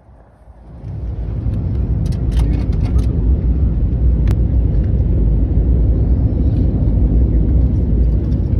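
Airliner cabin noise during landing: a low rumble that swells about a second in and then holds steady, with a few faint clicks and one sharp click near the middle.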